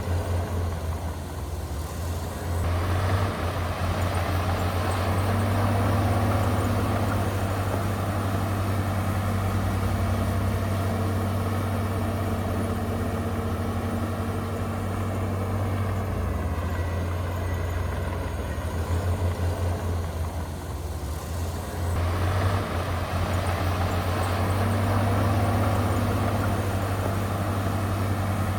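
Heavy earthmoving machine's diesel engine running with a steady low drone. A heavier spell of engine and mechanical noise sets in a couple of seconds in, eases off about three-quarters of the way through, and picks up again near the end.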